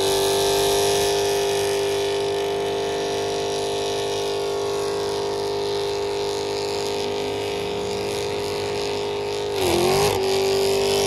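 Dodge Charger doing a burnout: the engine is held at high, steady revs while the rear tyres spin in a cloud of smoke. About ten seconds in, the revs dip briefly and then climb back.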